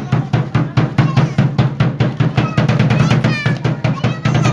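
Drum of a Matachines dance keeping a steady, fast beat of about four strokes a second.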